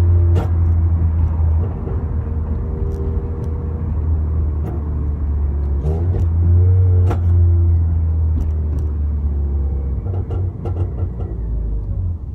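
Exhaust of a 2008 Honda Civic Si (FA5) with its 2.0-litre four-cylinder, fitted with a header, test pipe and 2.5-inch catback but the stock axle-back: a steady deep rumble. The engine note swells about halfway through, then eases.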